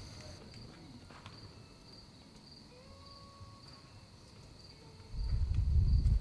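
Crickets chirping in a faint, even, pulsing trill. Near the end a loud low rumble lasts about a second.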